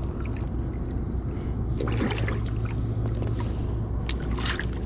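Low, steady drone of a river vessel's engine, whose wake is reaching the bank, with a few sharp clicks and knocks about two seconds in and again near the end.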